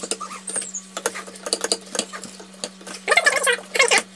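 A utensil stirring and beating mashed potato in a saucepan, with repeated clicks and scrapes against the pan that get louder and busier about three seconds in. A steady low hum runs underneath.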